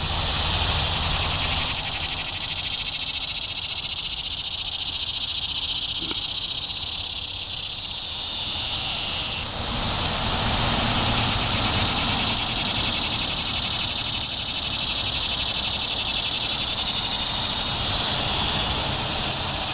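Male annual cicadas calling from a tree: a steady, high-pitched buzzing drone, with a low rumble underneath.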